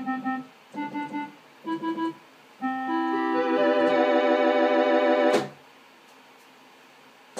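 Old electronic keyboard on its default voice: three short chords, then a held chord that builds up note by note with a wavering tone for about three seconds and cuts off with a click, followed by a couple of seconds of faint hiss.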